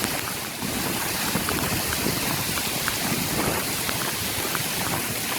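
Heavy hail falling: a steady dense hiss of hailstones striking the ground and nearby surfaces, with many sharp individual ticks of stones landing.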